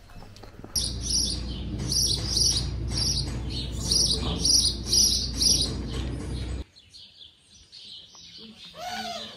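A bird chirping over and over, about two high chirps a second, which stops abruptly about six and a half seconds in.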